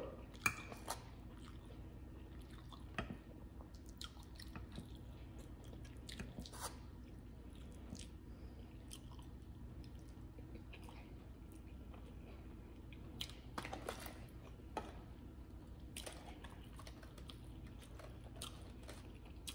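Faint chewing and mouth clicks of a person eating a forkful of baked stuffed chicken breast, with a few louder clicks around two thirds of the way through.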